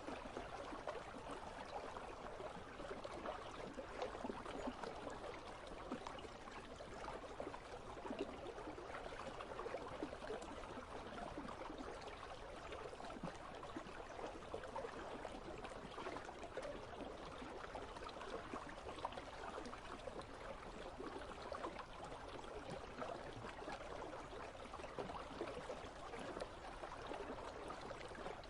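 River water flowing and trickling steadily over rocks, a soft continuous babble.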